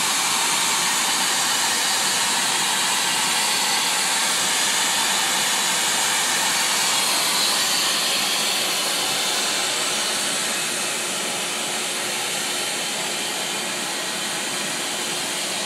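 Pressurised water gushing from a burst water pipe: a steady, loud hiss that eases slightly about ten seconds in.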